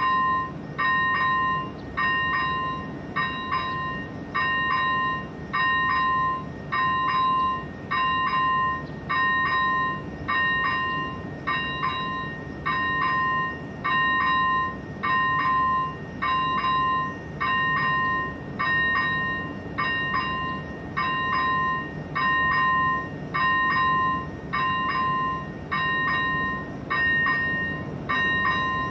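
Level crossing warning bell of AŽD 97 crossing signals, an electronic bell ringing about once a second in an even, unbroken rhythm while the crossing is closed for a train. A low steady rumble sits underneath.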